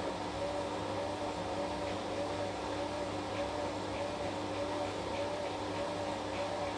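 Washing machine running mid-cycle: a steady motor hum with a whine that wavers up and down about one and a half times a second. Faint regular ticks join in from about two seconds in.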